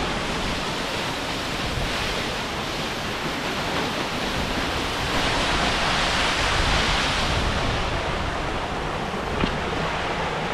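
Steady rush of falling water from a waterfall, with some wind buffeting the microphone.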